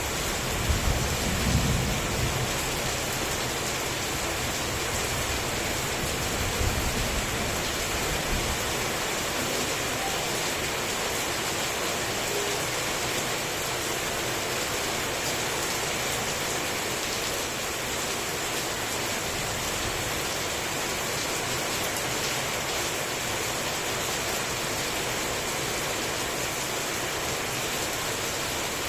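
Heavy rain falling steadily. Low thunder rumbles come in the first couple of seconds and again about seven seconds in.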